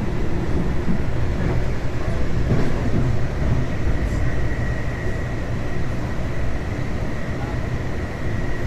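Passenger train running along the track, heard from inside the carriage: a steady low rumble with a faint, steady high-pitched tone above it.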